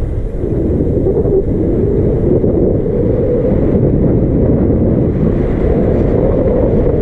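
Wind buffeting the microphone of a camera riding along on a moving e-bike: a steady, loud, low rumble.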